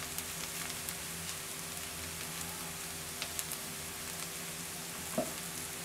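Chopped onion and crushed garlic frying gently in oil in a karahi: a steady, quiet sizzle with scattered small crackles.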